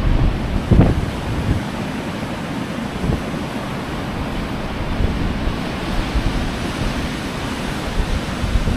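Ocean surf washing onto a beach in strong wind, a steady rushing noise with low gusts buffeting the microphone, the strongest about a second in.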